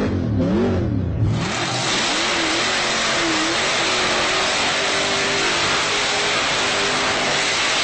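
Vocal imitation of a car engine: a mouth-made engine note revving up and down in the first second or so. It then gives way to a long, steady rushing hiss with a faint wavering tone under it.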